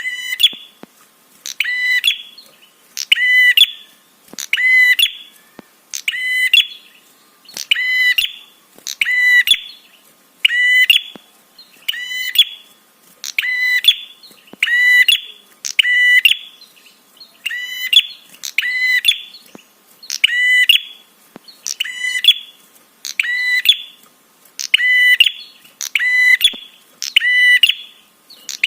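Prenjak (prinia) lure call: one short, shrill, buzzy phrase repeated on a loop about once a second, each phrase swelling to a sharp end.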